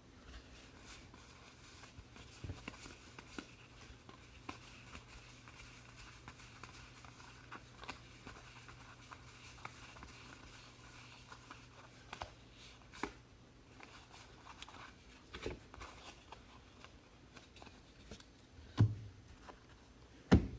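Trading cards and pack wrappers being handled: scattered light clicks, taps and rustles, with a faint steady hum through the first two-thirds.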